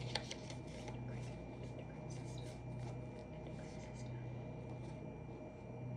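Scattered light clicks and rustles from desk work over a steady low hum.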